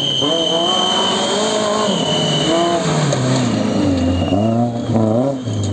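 Maruti Gypsy rally car's four-cylinder engine revving hard on a dirt track, its pitch rising and falling repeatedly as the throttle is worked through a slide.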